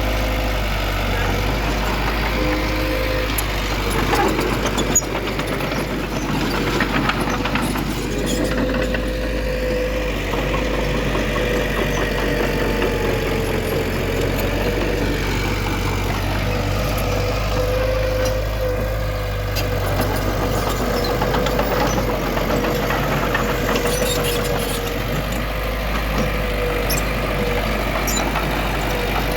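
Heavy diesel engine of earthmoving machinery running steadily at a constant pitch, with a few short metallic knocks now and then.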